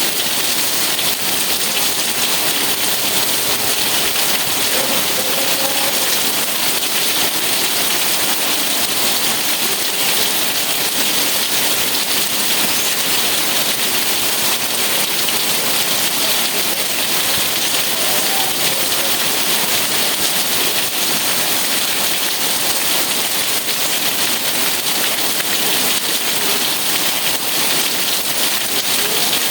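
Steady rain falling on a surface, an even hiss that neither builds nor fades.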